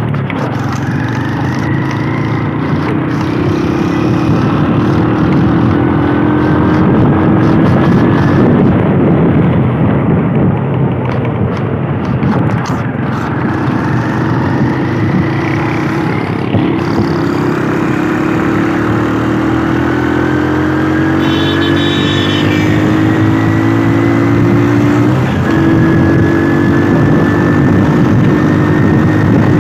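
Motorcycle engine running while riding, with rough wind noise on the microphone. The engine pitch climbs slowly and drops back about three times.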